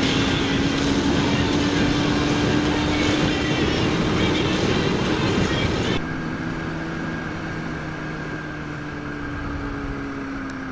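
Kawasaki ZX-6R 636's inline-four engine cruising at steady revs under heavy wind noise. About six seconds in, the wind noise drops suddenly and the engine's tone stands out more clearly, easing slightly.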